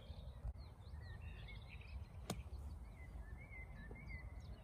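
Small birds chirping and twittering over a low background rumble, with one sharp click a little over two seconds in.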